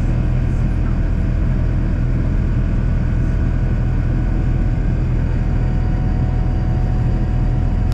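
Steady, loud low rumble of a Boeing 787-9's engines and airflow heard from inside the passenger cabin, with a few faint steady tones above it.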